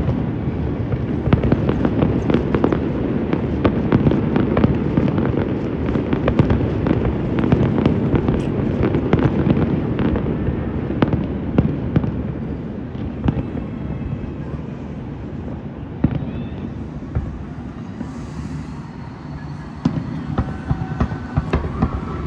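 Fireworks display: a dense run of bangs and crackles over a continuous rumble, easing off about two-thirds of the way through, then a few more bangs near the end.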